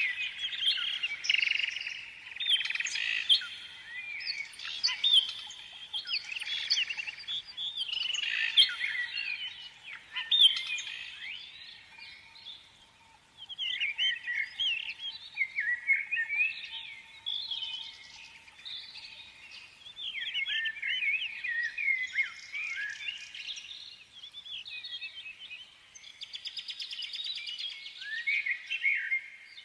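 Small songbirds chirping and singing in a continuous, overlapping chorus of quick, varied phrases, with a brief lull about twelve seconds in.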